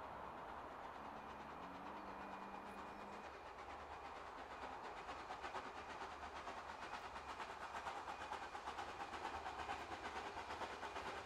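An approaching train, heard first faintly and then, from about four seconds in, as a rapid regular beat that grows louder as it nears.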